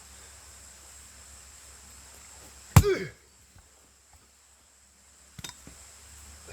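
An axe strikes a log and splits it: one sharp, loud crack with a brief ringing that falls in pitch. A few seconds later come a couple of lighter knocks of wood.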